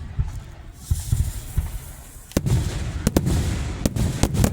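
Aerial fireworks display: deep booms of shells bursting, then from about halfway a quick run of sharp, cracking reports, several close together.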